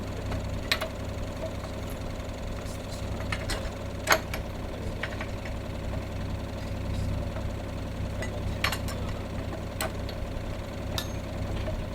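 Skid loader engine idling steadily, with a few short, sharp metallic knocks and clinks scattered over it while the loader's bucket is being unbolted and worked off.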